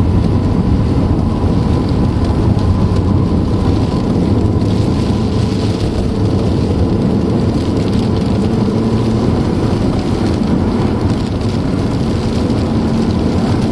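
Rain falling on a moving car, heard from inside the cabin over steady road and engine noise.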